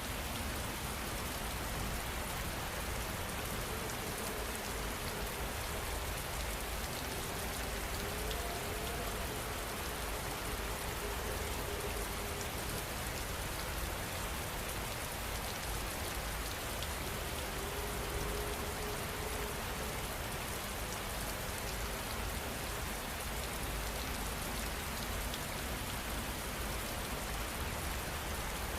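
Steady rain falling on surfaces, an even hiss of many drops with no let-up. A faint low tone drifts in and out twice in the middle.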